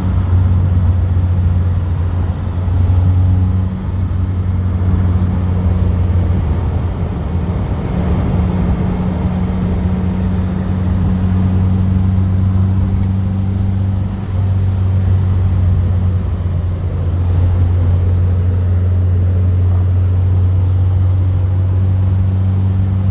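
A classic car's engine and road noise heard from inside the cabin while driving: a steady low drone that dips briefly about 4, 14 and 17 seconds in.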